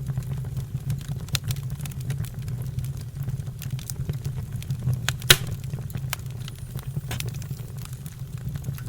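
A fire burning with a steady low rumble and scattered crackles, with one loud pop about five seconds in.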